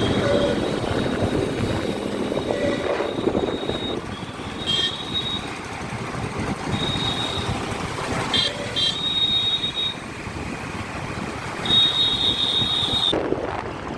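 Traffic and wind noise while riding a scooter along a town road, with several short high-pitched horn beeps: brief ones about five seconds in and twice near the middle, and longer ones later on.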